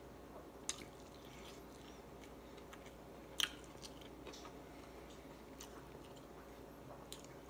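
A person chewing food with the mouth, with a few sharp wet smacks or clicks, the loudest about three and a half seconds in.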